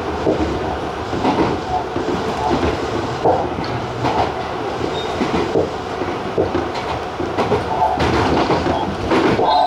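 Tobu TJ Liner electric train running at speed, heard from the cab: a steady rumble of wheels on rail with scattered clacks over rail joints.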